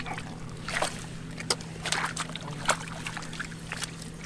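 Shallow water splashing and sloshing as hands grope through it, in short irregular splashes and drips, over a steady low hum.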